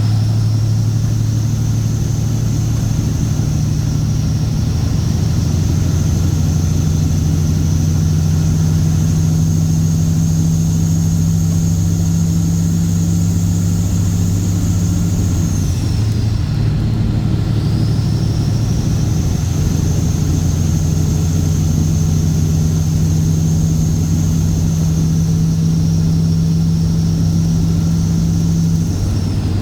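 Straight-piped Cat C15 ACERT diesel in a Kenworth W900 running steadily under way, with a high whine above the exhaust note. About halfway through, the engine note and the whine dip briefly and come back, as in a gear change on the 18-speed transmission, and they dip again near the end.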